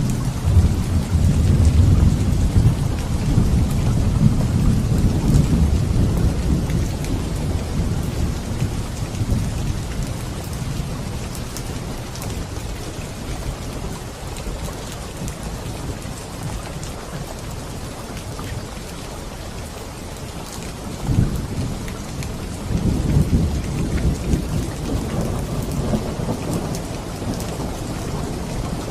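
Steady heavy rain with thunder: a long low rumble fades away over the first ten seconds, then a sharper thunderclap about two-thirds of the way in rolls on for several seconds.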